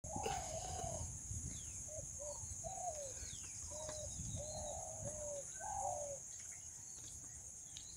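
A wild bird calling in a rapid series of short, hooked cooing notes, which thin out after about six seconds, over a steady high-pitched drone.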